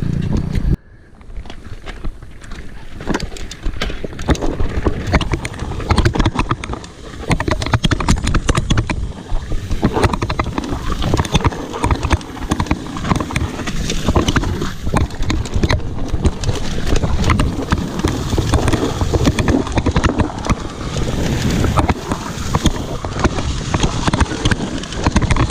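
Mountain bike riding fast down a dirt trail: the tyres rumble over dirt and rocks and the bike rattles over the bumps the whole way, with wind buffeting the microphone.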